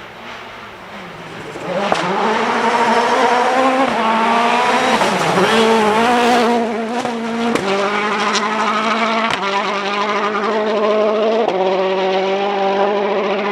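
Rally car engine running hard at high revs, growing loud about two seconds in. Its pitch wavers and steps with throttle and gear changes, and a few sharp cracks cut through.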